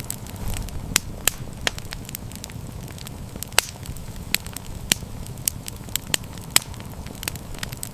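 Wood fire crackling: irregular sharp pops and snaps, about two a second, over a low steady rumble of the burning.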